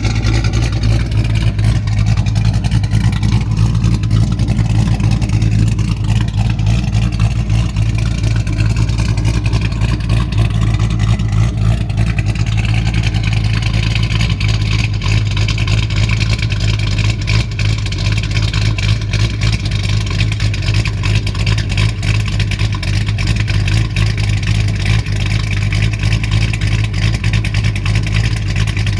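1986 Ford Mustang GT's 302 (5.0 L) V8 with a Trick Flow Stage 1 cam idling steadily through a Pypes Violator 2.5 in exhaust with an X-pipe.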